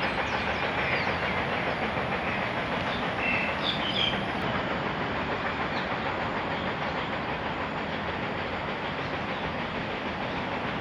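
Steady rushing of river water pouring over a weir, with a few short high chirps about three to four seconds in.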